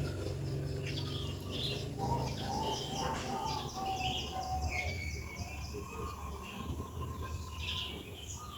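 Birds chirping and calling repeatedly over a steady low hum.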